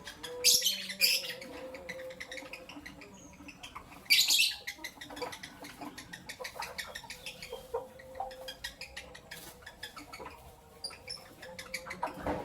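Pet lovebirds chirping: two loud, shrill bursts of chirps, about half a second in and about four seconds in, with scattered soft clicks and lighter calls in between.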